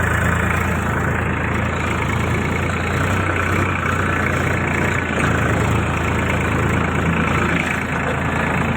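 Tractor's diesel engine running steadily at a constant speed, loud and close.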